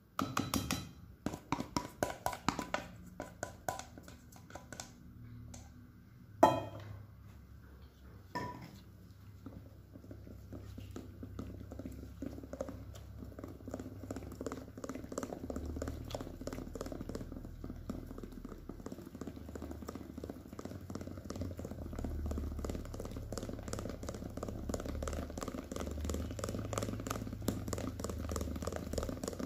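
Kitchen food-preparation sounds: a quick run of clicks and knocks, a sharp knock about six seconds in and a smaller one two seconds later, then a steady fine ticking and rustling for the rest of the time.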